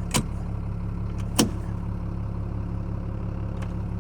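Tow truck engine running steadily, heard from inside the cab, with two sharp clicks of dashboard switches being flipped.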